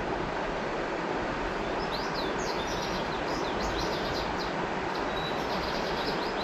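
River water flowing with a steady rushing sound, with small birds chirping in quick runs of short high notes from about a second and a half in.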